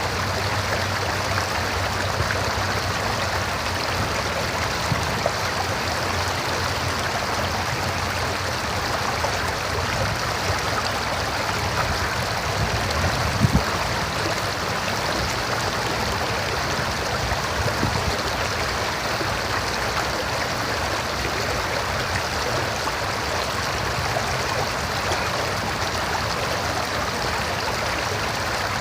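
A river running over rocks: a steady rush of flowing water, with a single brief knock about halfway through.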